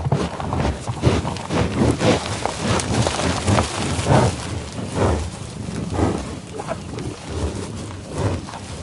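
Farm animal sounds: a busy mix of many short, irregular calls and noises overlapping one another.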